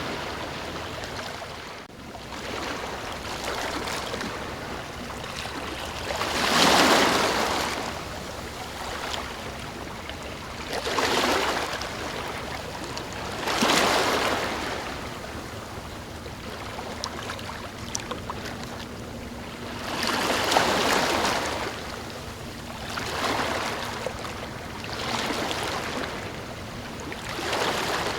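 Ocean waves washing in over a steady rush of water, one swell every few seconds, the biggest about seven seconds in.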